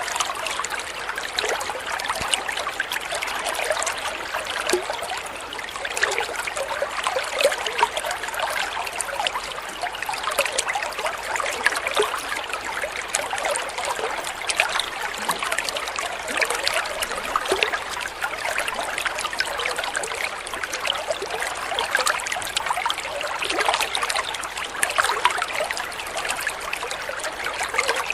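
Water trickling and splashing steadily over stones, like a small stream, with a constant babble of tiny splashes.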